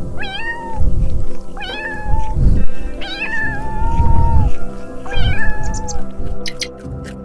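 A domestic cat meowing four times, each meow about half a second to a second long, over background music. A quick run of short ticks follows near the end.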